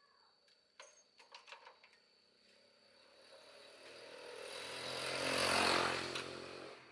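A few light clicks, then a motor vehicle engine passing by: it grows louder over a few seconds, peaks, and fades away.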